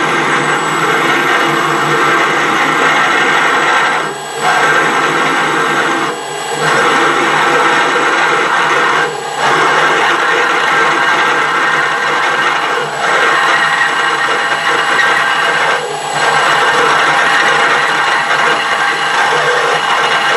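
A power tool working metal: a steady, loud cutting and grinding noise, broken by five short pauses.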